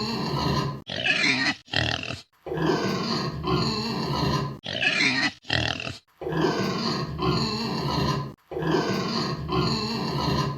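Domestic pigs grunting and oinking, with two short stretches of higher-pitched calls; the sound comes in several cut-together pieces separated by brief silences.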